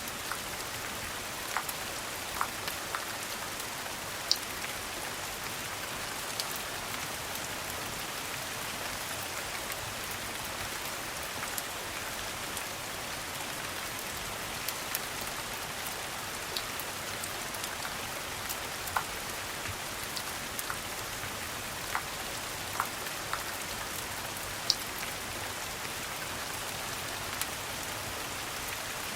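Steady rain falling, an even hiss, with a dozen or so sharp crackles and pops of a wood fire scattered through it.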